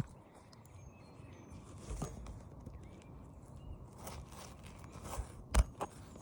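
Footsteps and scraping on an asphalt shingle roof, with a few soft knocks and a sharper one about five and a half seconds in.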